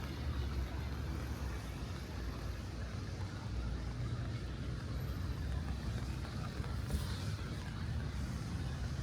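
City road traffic in the rain: a steady low engine rumble with tyre hiss on wet road. A brief sharper hiss comes about seven seconds in.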